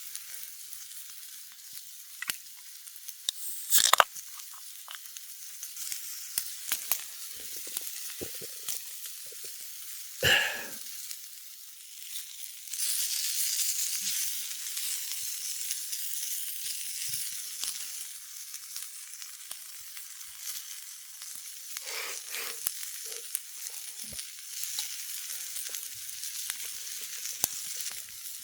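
Food sizzling over an open campfire: a steady hiss scattered with small crackles, louder for several seconds from about halfway through. Two brief, louder knocks come about four and ten seconds in.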